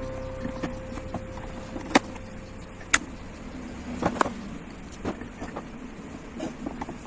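A few sharp clicks and taps from small parts of a removed DISA intake valve being handled, as its loose support plate is fixed in place. The loudest clicks come about two, three and four seconds in.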